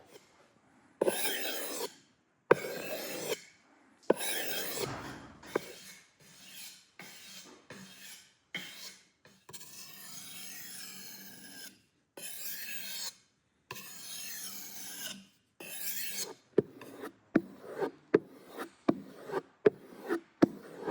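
Rasping, rubbing strokes of a tool or blade drawn over a hard surface, each about half a second to two seconds long. Near the end they give way to a quicker run of short scrapes with sharp clicks, about two a second.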